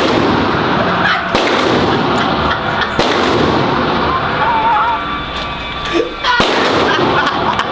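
Gunshots at a shooting range: several separate sharp reports a second or more apart, over a dense, noisy background.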